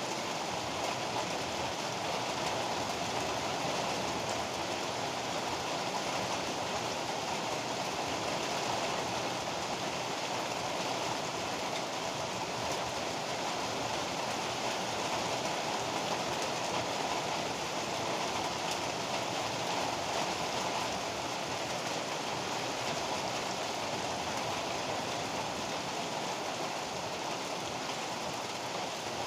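Steady heavy rain falling, an even unbroken hiss and patter with no thunder or gusts standing out.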